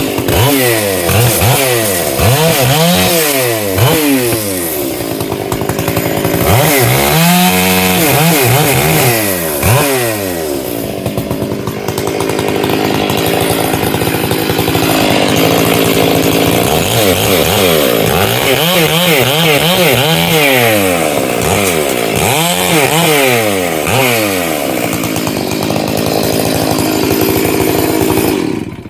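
Two-stroke chainsaw cutting firewood, its engine pitch repeatedly rising at full throttle and dipping as the chain bites into the wood, then cutting off at the end. The saw is running a bit rich.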